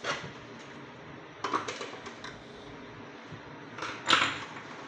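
A few short clicks and clatters of small parts and tools being handled on a workbench during vacuum cleaner disassembly: one about a second in and two near the end, the last the loudest.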